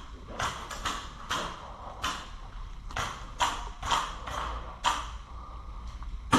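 Footsteps moving through dry undergrowth, short crunches coming unevenly about twice a second.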